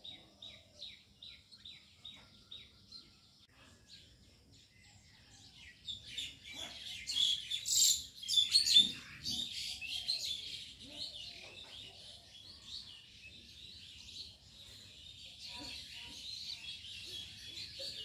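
Birds chirping: first a fading series of quick, repeated down-slurred chirps, then from about six seconds in a busy chatter of many chirps that is loudest a couple of seconds later and goes on.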